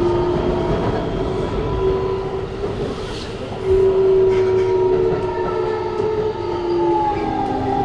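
Keikyu New 1000 electric train running, heard inside the car. The Siemens GTO VVVF inverter and traction motors give a steady whine of several tones that drift slightly in pitch, over the rumble of wheels on rail. The rumble grows louder a little under four seconds in.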